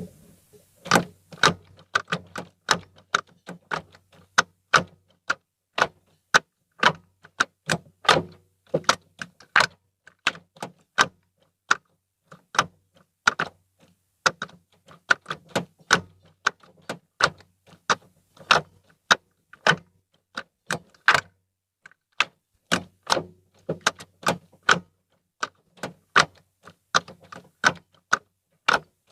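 Ford Fiesta gear-shift linkage clicking and knocking as the gears are engaged again and again, dozens of sharp clicks in irregular clusters. The linkage arms have just been lubricated with WD-40, and the engagement now sounds normal to the owner instead of the earlier metal-on-metal 'crack'.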